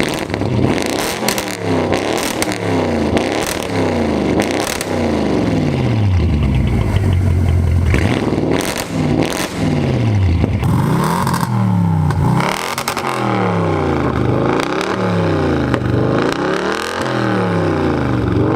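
Audi RS7's twin-turbo 4.0 V8 revved again and again through an ARMYTRIX valved exhaust with the valves open, each rev falling away in about a second. There are crackles in the first few seconds.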